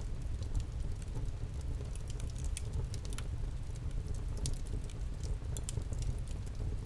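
Wood campfire crackling, with many irregular sharp snaps and pops over a low steady rumble.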